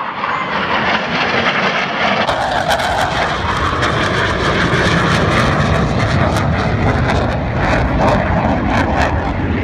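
Roar of a Blue Angels F/A-18 Hornet jet flying over, loud and continuous, growing louder and deeper about two seconds in.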